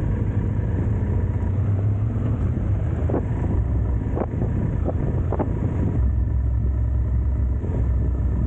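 Motorcycle engine running with wind noise on the helmet microphone while riding. The low rumble grows stronger about six seconds in.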